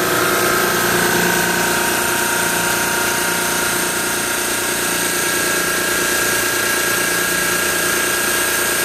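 Carrier reciprocating refrigeration compressor running steadily at full speed just after starting, a constant mechanical hum with a high steady whine over it.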